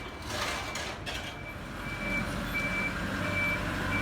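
A vehicle's reversing alarm beeping steadily, a short high beep about every 0.7 seconds, while an engine rumble grows louder from about halfway through.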